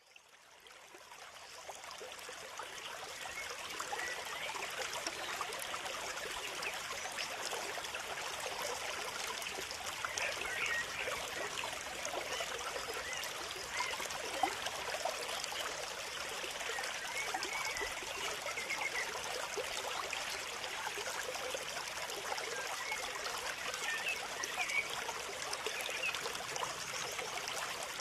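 Steady trickling, running water that fades in over the first few seconds, with a few faint bird chirps now and then.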